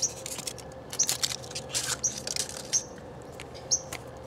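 A songbird chirping, short high chirps repeating about once a second, over light rustling and clicking of hands handling a plastic Kinder Surprise toy capsule.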